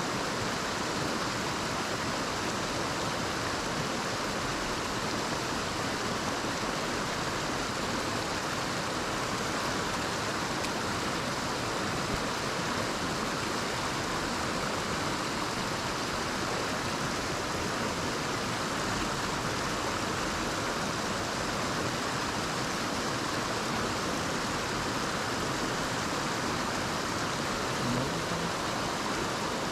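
Mountain stream rushing over rocks, a steady, unbroken wash of water noise.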